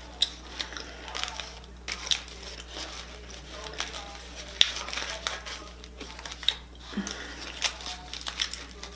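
Close-up chewing of a grilled tortilla wrap with crunchy corn shells inside, with sharp crunches scattered throughout. The aluminium foil around the wrap crinkles as it is handled.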